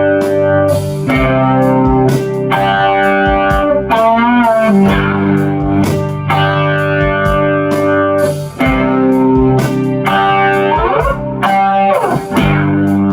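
PRS Custom 24 electric guitar played through a Two Rock Vintage Deluxe tube amplifier, with chorus and long delay from an Echo Fix EF-X3 tape echo. Ringing chords are struck every second or two, with a wavering bent note about four seconds in and sliding notes near the end.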